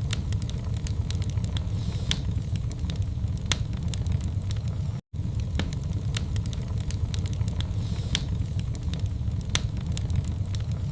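Wood fire in a fireplace crackling, with irregular sharp pops and snaps over a steady low rumble of the flames. The sound cuts out completely for an instant about five seconds in.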